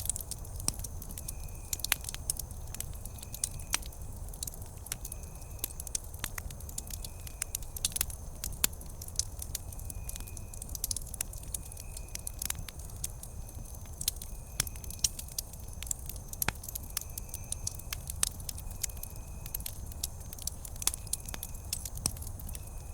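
Wood campfire crackling, with many sharp snaps and pops over a low steady rumble. A faint high chirp repeats about once a second.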